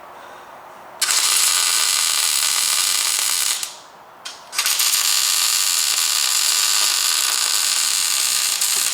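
MIG welder arc crackling and hissing as beads are laid on the truck frame's front shock mount repair: a weld of about two and a half seconds starting about a second in, a short break, then a longer second run.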